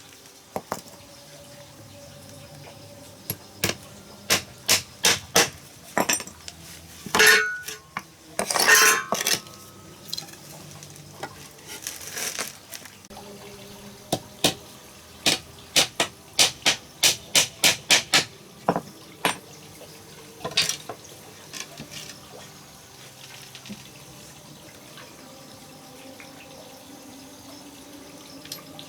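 Kitchenware clinking and knocking in a series of sharp strikes with a few brief scrapes, including a quick run of about three strikes a second past the middle.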